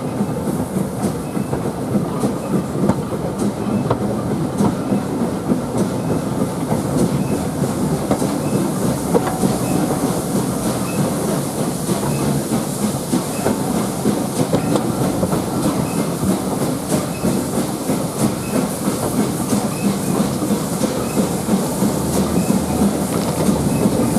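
Train ride behind a GWR Prairie 5526 steam tank locomotive: a steady rumble as the coaches run along, with the wheels clicking over rail joints.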